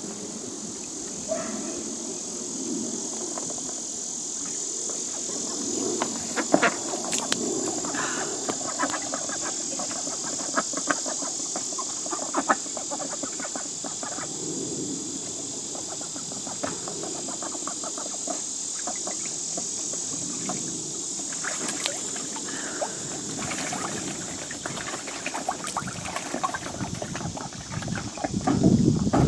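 Domestic ducks quacking and chattering on and off, with runs of quick clicking sounds, over a steady high-pitched hiss.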